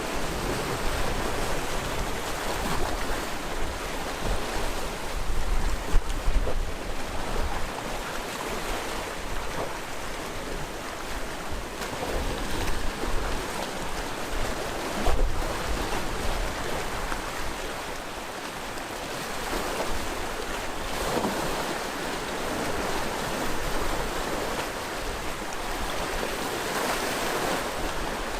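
Sea waves breaking and washing on a rocky shore, a continuous surge that swells every few seconds, with low wind rumble on the microphone.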